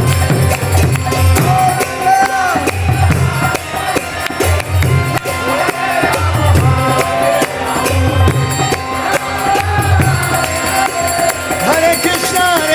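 Kirtan music: voices chanting over a steady, rhythmic drum and jingling hand cymbals.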